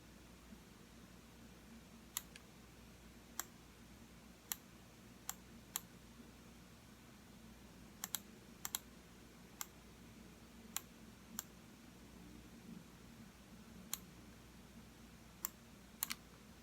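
Computer mouse buttons clicking: about a dozen single clicks at irregular gaps of a second or so, with a few quick double clicks, over a faint low room hum.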